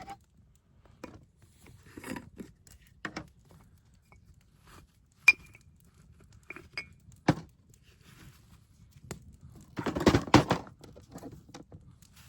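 Scattered clinks and knocks of metal cooking gear being handled, with one sharp metallic clink that rings briefly about five seconds in and a short burst of rattling near the end.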